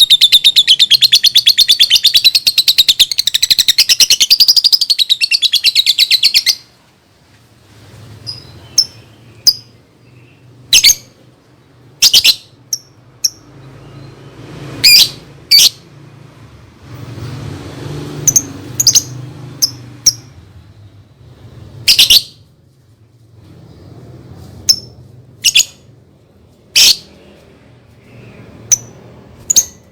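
Lovebird chattering in a rapid, continuous trill that stops about six seconds in, followed by single sharp chirps every second or two.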